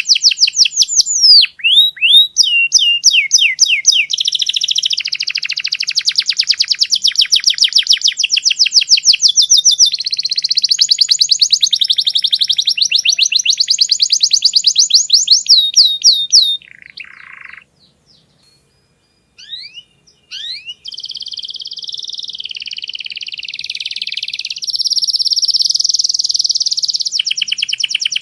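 Domestic canary singing: long runs of very rapid trilled notes, breaking off for about three seconds past the middle before the song starts again.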